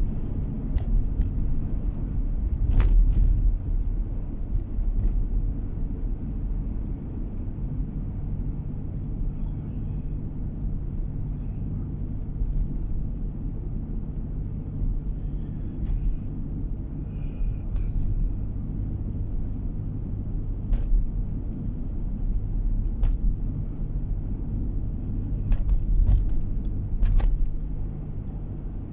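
Car driving, heard from inside the cabin: a steady low engine and road hum, with a few short sharp knocks through it.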